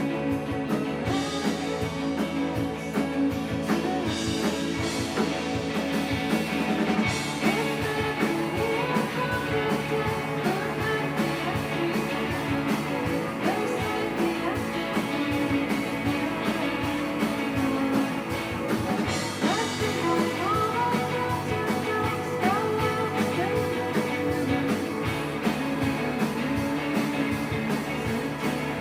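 Live rock band playing a song: electric guitar, bass and a steady drum beat, with a singer's voice over it.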